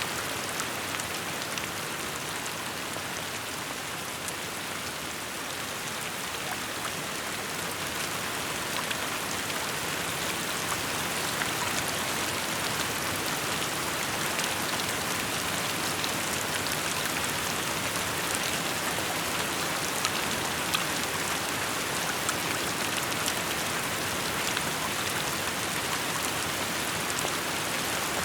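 Steady rainfall pattering on surfaces, an even hiss full of small drop ticks, easing slightly a few seconds in and then holding steady.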